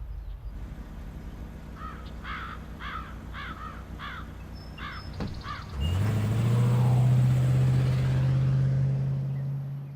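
A bird calls about seven times in quick succession over a low rumble; about six seconds in, a loud, steady, low-pitched drone, like a motor starting up, takes over and holds.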